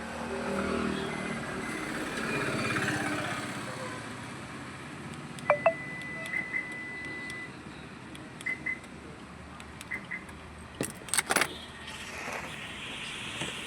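An electronic beep held for about two seconds, then several pairs of short beeps, followed by a quick run of sharp clicks. Faint muffled voices come early on.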